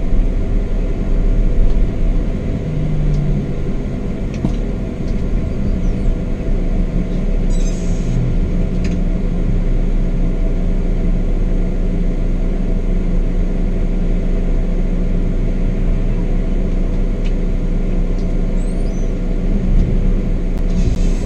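Scania K420 double-decker coach under way, its engine and the road giving a steady low rumble with a brief rise in engine pitch a few seconds in.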